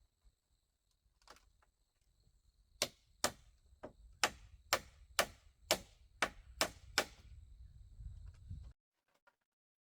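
A tool striking bamboo about ten times in a steady rhythm, roughly two strikes a second, before the sound cuts off suddenly.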